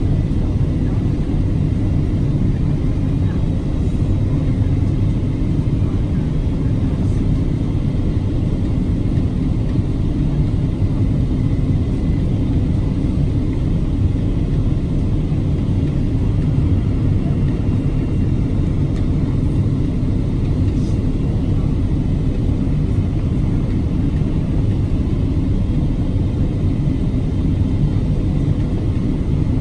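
Steady cabin noise inside a Boeing 777-300ER in flight during descent: an even, low rumble of airflow and the GE90 engines, with a faint steady hum above it.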